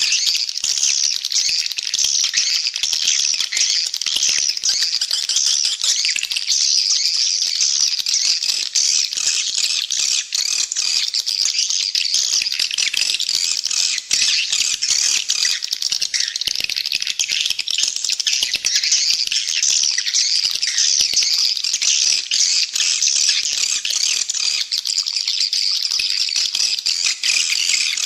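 Edible-nest swiftlets twittering in a dense, unbroken, high-pitched chattering rattle of many overlapping calls: a swiftlet call track used to lure the birds to roost and nest.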